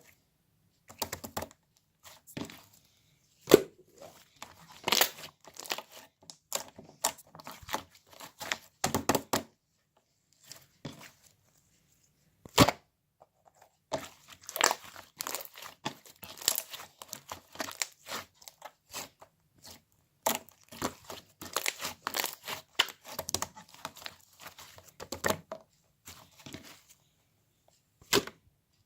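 White slime-clay being squeezed and pulled by hand, giving irregular bursts of crackling, tearing and popping with short pauses between.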